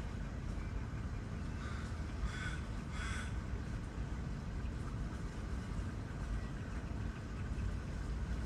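A raven cawing three times in quick succession about two to three seconds in, harsh calls over a steady low rumble of city traffic.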